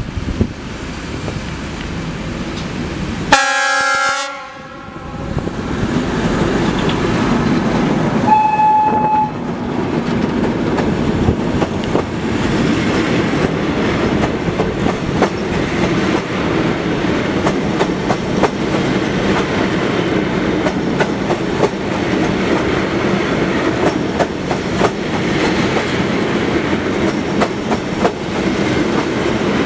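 Short blast from a class 750 diesel-electric locomotive's horn, then a brief high tone a few seconds later. After that comes the long towed train of old EM 475.1 electric units rolling past with a steady rumble, its wheels clattering over the rail joints.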